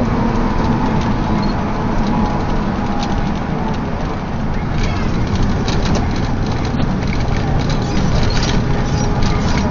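Steady road and engine noise of a moving vehicle picked up by a dashcam, with scattered small rattles and knocks.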